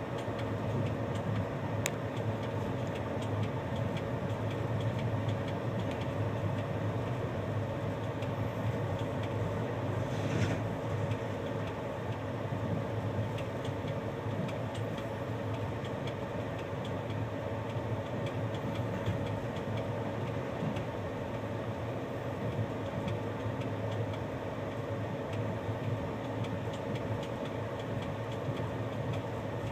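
Passenger train running steadily, heard from inside the carriage: a continuous low rumble of wheels on rails with many light clicks and rattles. There is a short hiss about ten seconds in.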